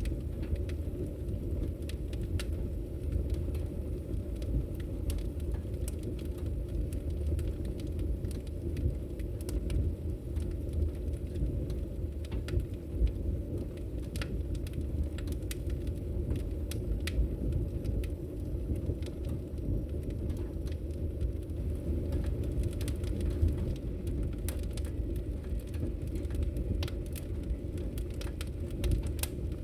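Wood logs burning in a fireplace, crackling with frequent sharp, irregular pops over a steady low rushing noise.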